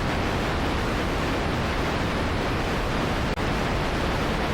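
Steady, loud rush of water, like a flood torrent, with a momentary drop about three seconds in.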